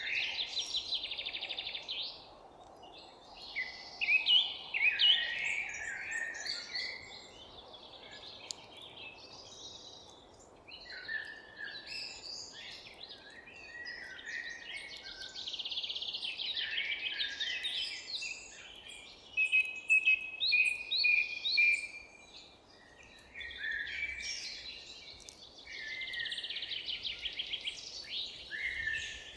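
Several songbirds singing and calling over each other: rapid trills, chirps and whistled phrases, with a faint steady background hum underneath.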